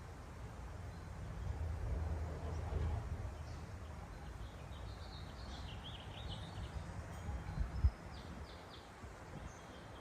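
Small songbirds chirping in a series of short, high notes, clustered in the middle. Under them a low background rumble swells early on, and a single low thump comes a little before the end.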